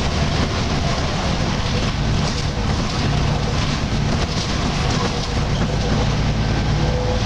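Volvo B10BLE single-deck bus under way, heard from inside the saloon: its rear-mounted six-cylinder diesel drones steadily under road and body noise.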